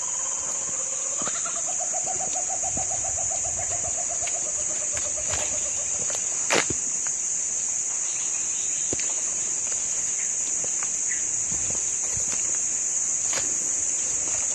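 Steady high-pitched insect drone with a bird's call near the start: a short rising note, then a fast quavering trill lasting about four seconds that slowly sinks in pitch. A single sharp click comes about six and a half seconds in.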